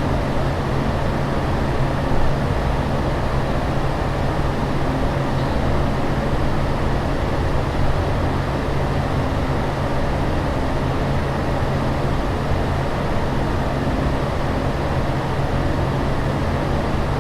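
Steady drone of an aircraft cabin in flight: an even rushing noise over a low, constant hum.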